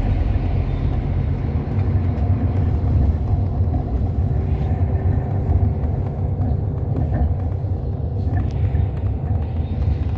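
Hyundai Universe Space Luxury coach on the move, heard from inside the cabin: a steady low rumble of engine and road noise.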